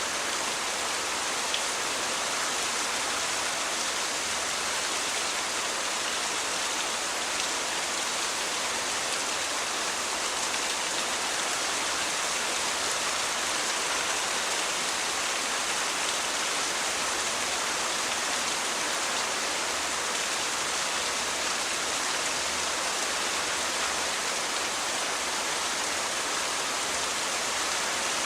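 Steady rain falling, an even, unbroken hiss with no thunder rumble.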